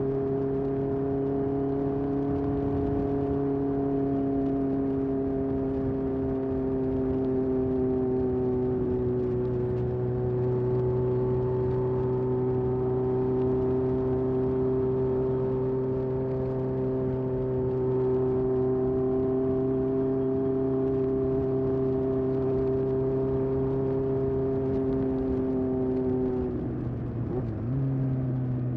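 Exhaust of a 1981 Honda CB750F's air-cooled inline-four through a Yoshimura muffler, running at a steady cruising speed. Near the end the pitch dips briefly and then slides down as the engine slows.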